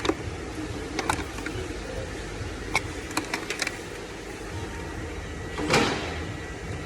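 Scattered light clicks and clacks of hand work on engine parts, with one louder clattering knock near the end, over a steady low hum.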